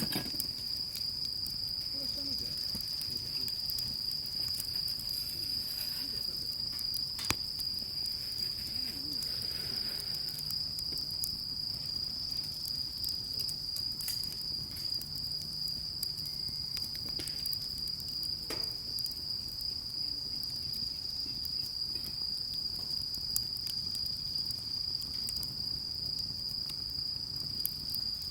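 Insects, crickets or similar, chirring in one continuous high-pitched trill, with a couple of faint clicks.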